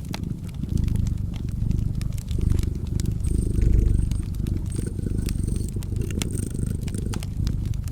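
Domestic cat purring, a low pulsing rumble, over a wood fire crackling and popping in sharp, irregular snaps.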